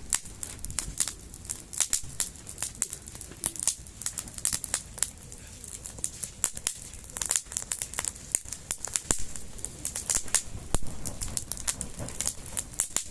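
Wood campfire crackling, with many irregular sharp snaps several times a second over a low hiss.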